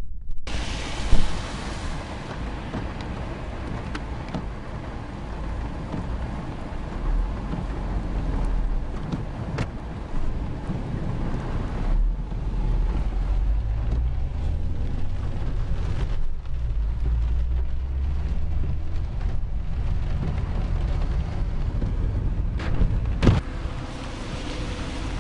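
Thunderstorm downpour: steady heavy rain noise over a deep rumble, with a couple of sharp knocks, one about a second in and one near the end.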